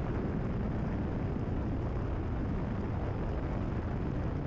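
Cessna 172RG's Lycoming O-360 engine and constant-speed propeller running steadily at cruise power, heard inside the cabin as a low, even drone.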